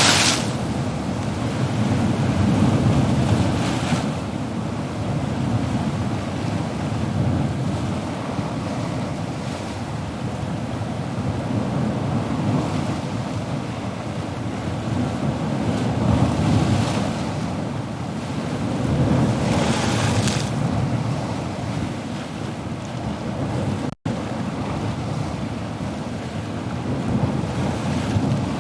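Ocean surf: waves breaking and washing in a continuous rush that swells and ebbs every few seconds, with brighter hissing surges as waves break. The sound briefly cuts out once, about three-quarters of the way through.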